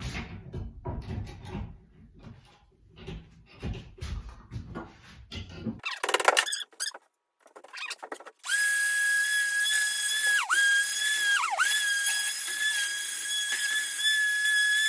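A run of irregular knocks and taps, then, a little past halfway, a power tool starts up with a loud, steady, high whine. Its pitch dips sharply twice, as if the motor is briefly loaded.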